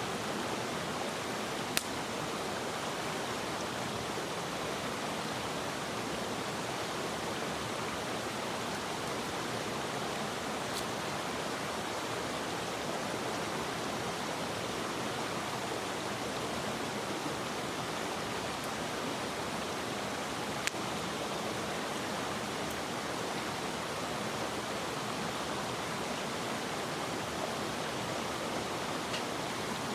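Mountain headwater stream rushing steadily, a constant even wash of water. A few single sharp clicks stand out of it.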